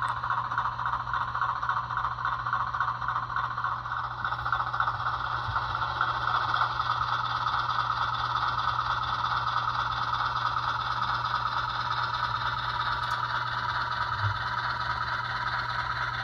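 HO scale model diesel locomotive running on the layout, a steady mechanical rattle with a constant low hum from its motor and drive.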